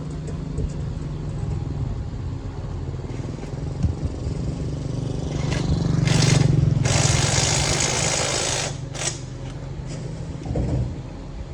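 A motor running steadily with a low hum, and a loud hiss lasting about three seconds midway through.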